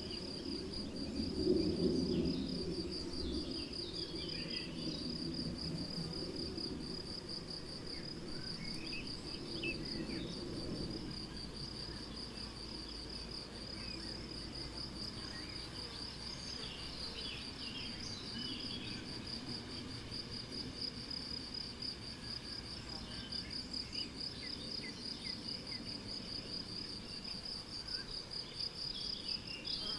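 Meadow crickets singing a steady, pulsing trill, with scattered short bird chirps over it. A low rumble sits underneath during roughly the first ten seconds and is loudest about two seconds in.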